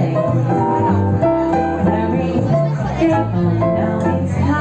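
Jazz quartet with trumpet playing: a regular line of low bass notes moves under chords and a melody.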